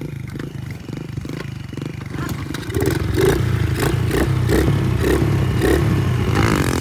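Small pit bike engine running, with a rhythmic pulsing; it gets louder and revs up about three seconds in.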